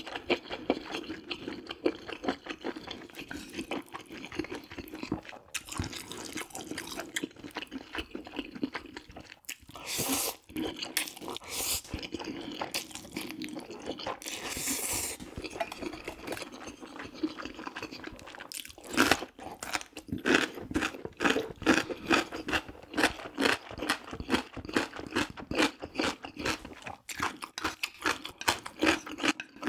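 Close-miked eating of jjajang ramyun noodles: wet chewing clicks throughout, with a couple of longer slurps around ten and fifteen seconds in. From about two-thirds of the way through, the chewing turns fast and rhythmic.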